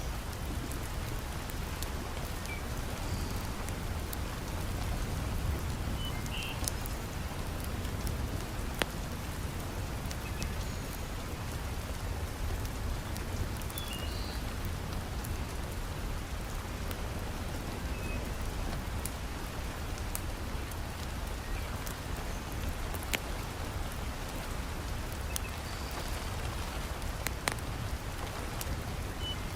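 Heavy rain falling steadily, with a deep rumble under it. A few sharp crackles from a wood fire in a fireplace stand out here and there.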